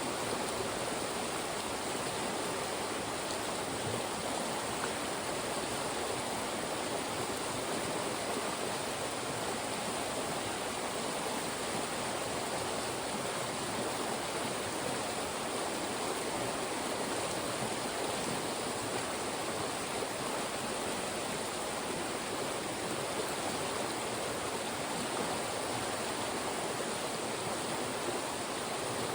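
Fast-moving mountain stream rushing steadily through funnels of rocks.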